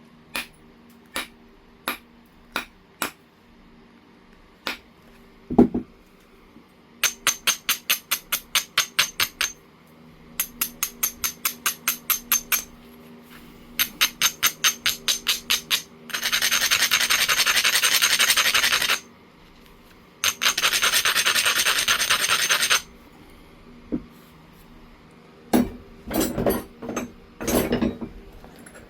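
Edge of an Oregon jasper piece being abraded against a coarse abrading stone to prepare the platforms. It starts with a few sharp clicks and a low knock. Then come three runs of quick back-and-forth scraping strokes, about five or six a second, and two longer stretches of continuous grinding. It ends with a flurry of clicks and knocks as the stone is handled and tapped.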